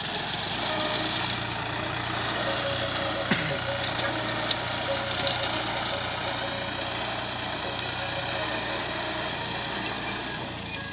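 An engine running steadily with a constant low hum, with a few faint clicks.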